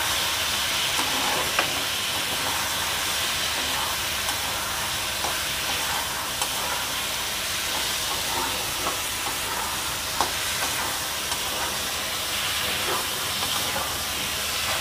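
Potato and gourd pieces coated in ground spices sizzling in hot mustard oil in a kadai, a steady frying hiss, with a few light scrapes and taps of a wooden spatula as they are stirred. This is the kosha stage, the spices being fried into the vegetables before water goes in.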